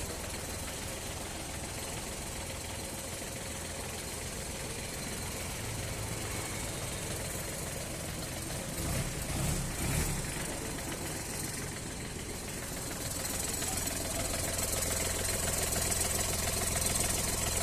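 Sonalika DI 20 tractor's diesel engine idling steadily, with a brief louder stretch about nine seconds in and running a little louder over the last few seconds.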